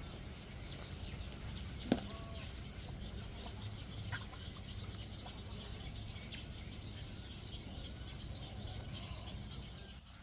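Many wading birds in a nesting rookery calling at once, a dense continuous chatter of short calls. A sharp click about two seconds in is the loudest sound, with a smaller one about four seconds in.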